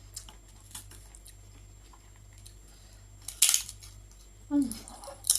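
A spoon clinking and scraping against a dish during eating: scattered small clicks, a louder, brief scrape about three and a half seconds in, and a sharp click near the end. A short low vocal sound falls in pitch about a second before the end.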